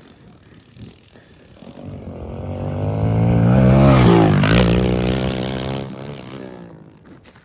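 Pit bike engine passing by: the engine note builds for about two seconds, drops in pitch as it goes past, then fades away.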